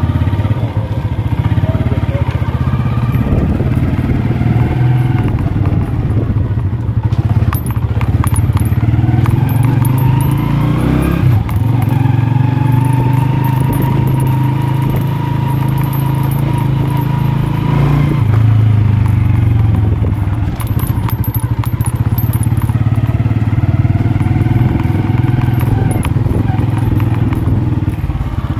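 Honda motorcycle's small single-cylinder engine running under way, its pitch rising several times as it accelerates, holding steady for a few seconds mid-way and dropping about eighteen seconds in.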